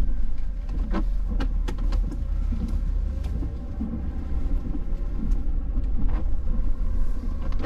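Snow-plowing vehicle's engine running with a steady low rumble, with scattered sharp clicks and knocks over it.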